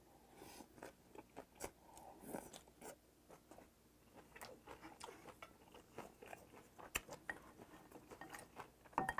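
Close-miked chewing and crunching of a mouthful of spicy vinegared raw gizzard shad salad (jeoneo hoe-muchim), a string of small wet clicks and crunches. Near the end comes a louder cluster of clicks.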